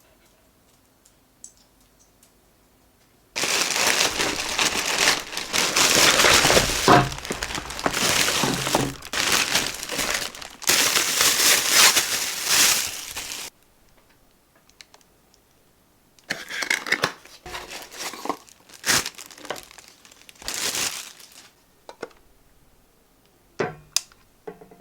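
Crinkly material being handled, crinkling and rustling. A long loud stretch starts about three seconds in and lasts some ten seconds; a shorter, patchier stretch follows later, and a couple of sharp clicks come near the end.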